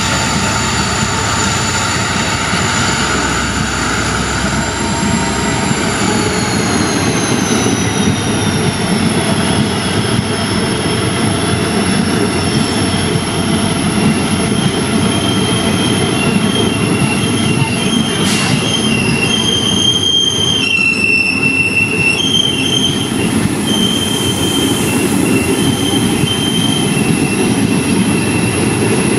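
Passenger coaches of a diesel-hauled express rolling past close by: a steady rumble of wheels on rail. From about halfway through, high intermittent wheel squeal comes and goes over it, with a single sharp click a little later.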